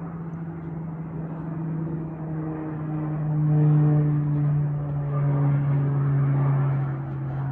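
Aircraft flying past with a steady low engine drone. It grows loudest around the middle and drops slightly in pitch toward the end.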